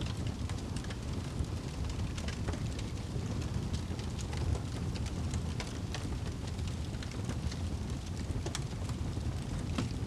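Wood fire crackling, with frequent small pops and snaps scattered irregularly over a steady low rumble.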